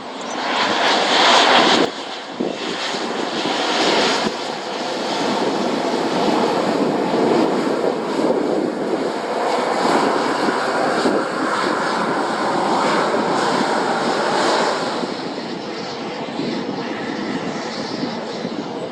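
Jet airliner passing close as it comes in to land: a loud engine rush that starts suddenly, is loudest about a second in, then holds steady and slowly fades near the end.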